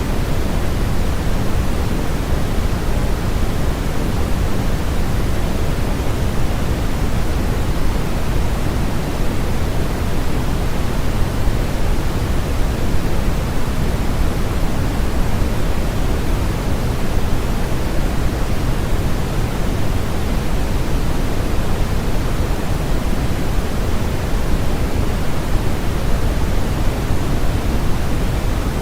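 Steady generated sleep-aid noise: an even, unchanging hiss, heavier in the low end than in the highs.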